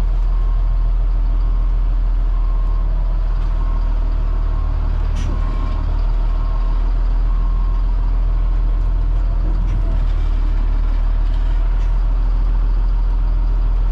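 Cat C7 diesel engine of a Blue Bird All American FE school bus running steadily with a deep hum. A repeating high-pitched beep sounds over it and stops about halfway through, and a sharp click comes near the middle.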